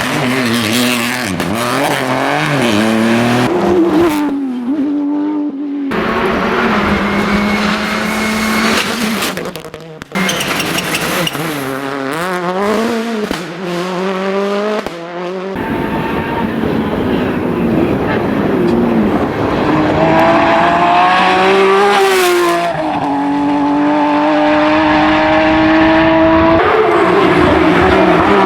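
Rally cars driven hard: engines revving high and falling back at gear changes and as cars pass, the pitch climbing and dropping again and again. The sound changes abruptly several times, going from one car or spot to another.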